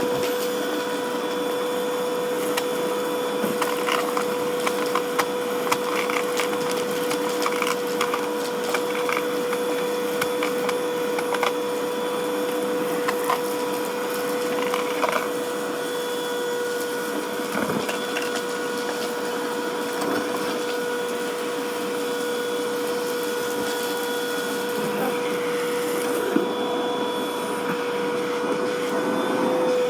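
Black & Decker vacuum cleaner running with a steady whine while crunchy debris crackles and clicks up through its nozzle, the crackling thickest in the first half.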